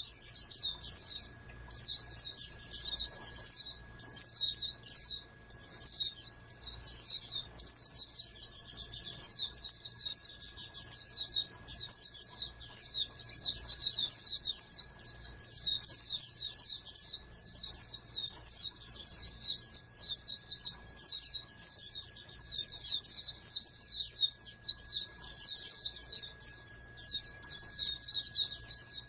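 Pleci (white-eye) singing a long, fast, high-pitched twittering song that runs almost without pause, broken only by a few short gaps in the first seconds.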